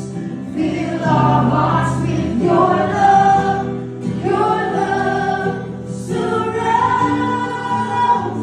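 Gospel choir singing held, sustained phrases over a steady low instrumental backing.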